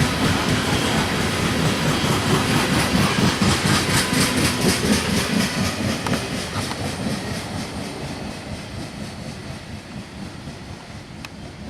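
Loaded coal train's hopper cars rolling past, with steel wheels clicking rhythmically over the rail joints; the noise fades away over the second half.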